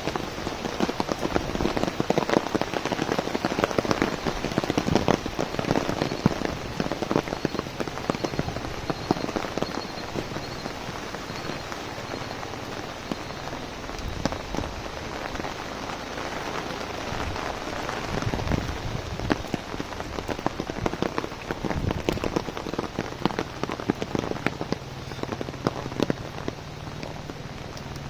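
Heavy rain falling on an umbrella overhead, a dense patter of sharp drop hits over a steady wash of rain. It is heaviest in the first several seconds, then eases a little.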